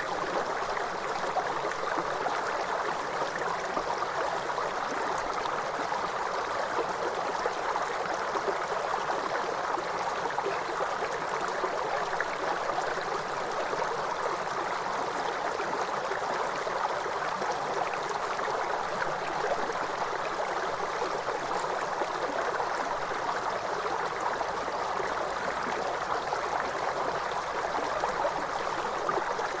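A waterfall's steady rush of falling water, an even, unchanging hiss.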